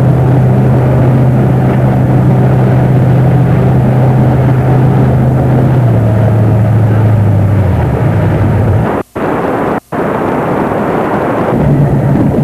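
A motorboat engine running steadily under a constant rushing noise, easing down in pitch about halfway through and again a couple of seconds later as it throttles back. The sound cuts out twice briefly near the end, then the engine hum returns.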